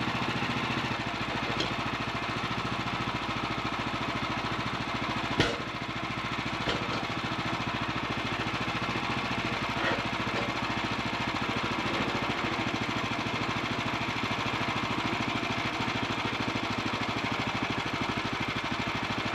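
Small gasoline engine of a portable sawmill running steadily. A sharp knock comes about five and a half seconds in.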